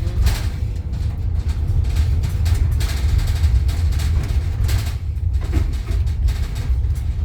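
Road and engine noise heard inside a moving vehicle's cabin: a steady low rumble with frequent rattles and knocks from loose things in the vehicle.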